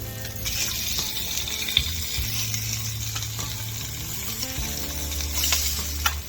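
Hot links and eggs sizzling in a hot pan as they are flipped, with a few sharp taps of the utensil against the pan.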